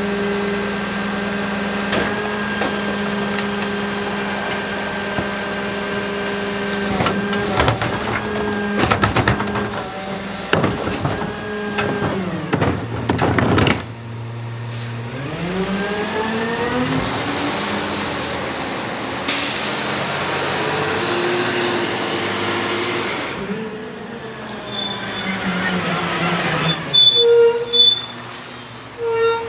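Pac-Tech rear-loader garbage truck at work: the engine and packer hydraulics run steadily while bins clank against the hopper. About halfway through the engine revs up for the packing cycle, and there is a stretch of air hiss.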